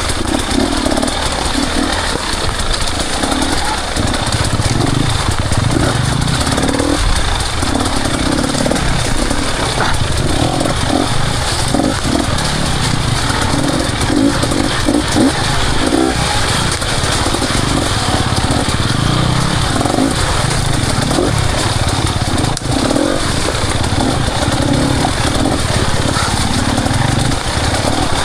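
Enduro motorcycle engine running as the bike is ridden along a trail, its pitch rising and falling with the throttle throughout, under a steady hiss.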